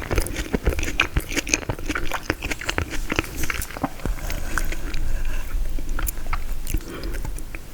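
Close-miked biting and chewing of frozen tiramisu, a dense run of sharp crunchy clicks and crackles from the hard-frozen dessert.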